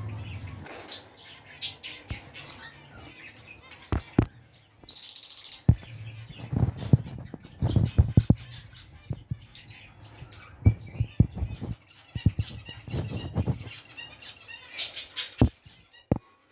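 Small aviary birds chirping, with wing flutters and many scattered sharp clicks and knocks.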